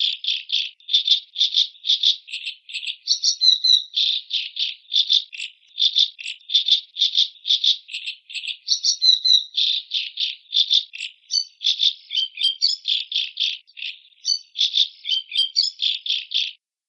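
Macaw giving a long run of harsh, rattling calls, about three a second, with brief chirpier phrases mixed in. The calls stop shortly before the end.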